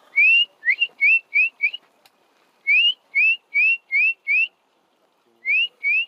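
A bird singing: short, clear, upward-sliding whistled notes, about three a second, in runs of five separated by short pauses.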